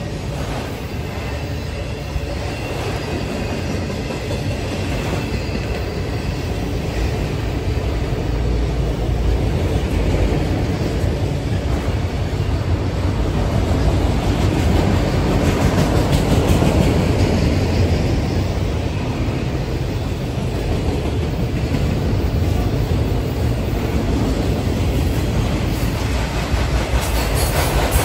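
Freight train of autorack cars rolling past close by: a continuous rumble of steel wheels on rail, swelling slightly toward the middle and again near the end.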